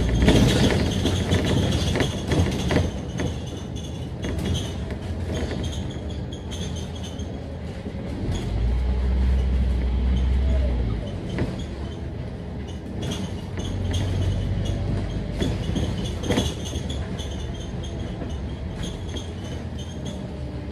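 Scania K310UD double-decker bus driving, its engine rumbling and pulling harder twice, with knocks and rattles from the bus body.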